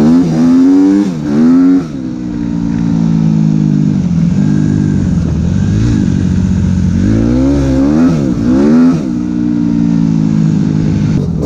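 Suzuki RM-Z250 four-stroke single-cylinder dirt bike engine through an open Akrapovič exhaust, revved in quick blips near the start and again later, running steadily in between.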